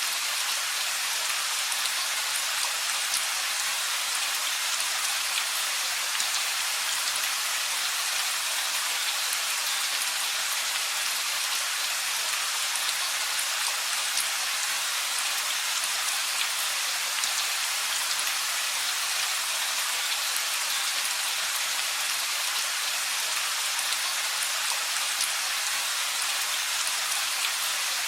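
Steady rain falling, with a dense patter of individual drops on surfaces.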